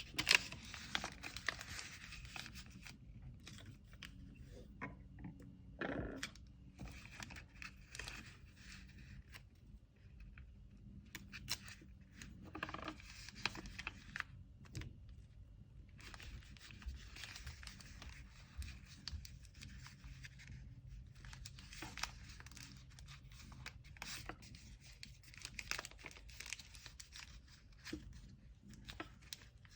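Paper packaging being handled: kraft paper rustling and crinkling, with tearing sounds, in spells broken by short quiet gaps.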